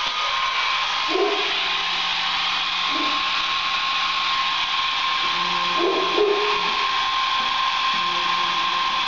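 Hair dryer blowing steadily, a loud rushing airflow with a constant motor whine. A Great Dane barks in the background a few times.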